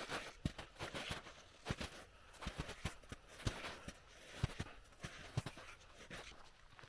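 Irregular soft knocks, some with a low thud, over a steady rustling.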